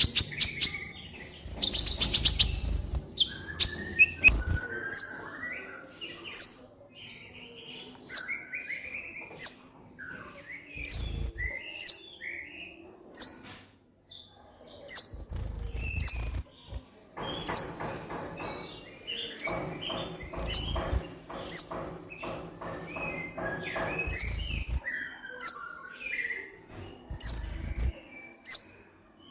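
Olive-backed sunbird singing energetically: a sharp, high note repeated about once every second or so, between quick chattering and warbling phrases and a couple of fast rattling trills.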